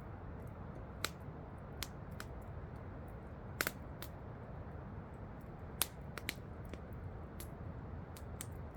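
Campfire crackling, with irregular sharp pops, the loudest a double pop near the middle and another about two-thirds through, over the steady rush of waterfalls.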